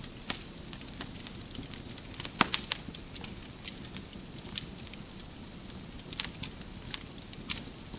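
Wood fire crackling: irregular sharp pops and snaps over a low steady hiss of burning logs, with a cluster of louder pops about two and a half seconds in.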